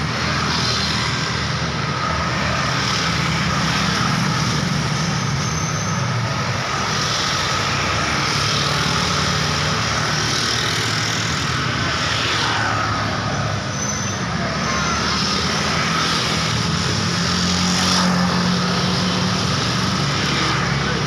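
Road traffic: a continuous mix of engines and tyre noise from vehicles passing close by, swelling several times as individual vehicles go past.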